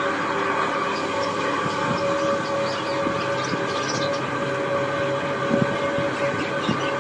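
A group of budgerigars chattering and chirping continuously, over a steady hum.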